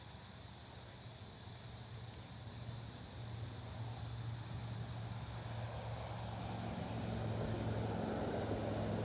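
Outdoor ambience: a steady high insect chirring, with a low engine-like rumble that swells over the second half.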